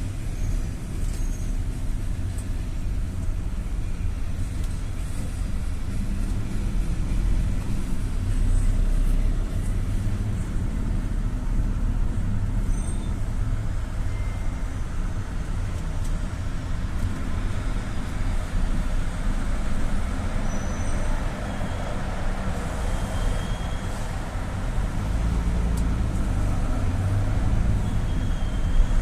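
GAZ Gazelle City (A68R52) minibus on the move: a steady low rumble of engine and road noise that swells slightly a couple of times, with a few faint, short high chirps.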